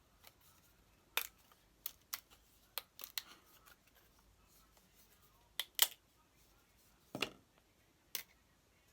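A thin sheet being cut out by hand: a series of sharp, irregular snips and clicks, the loudest about six and seven seconds in.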